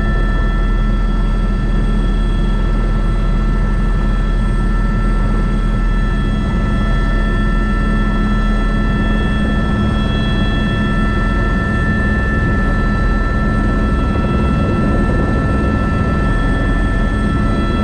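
Airbus AS350 B3 (H125) helicopter running steadily: a low rotor-and-engine rumble with several steady high turbine whine tones over it.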